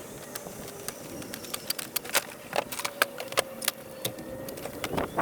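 Irregular sharp clicks and knocks, many in quick succession, over a faint steady hum.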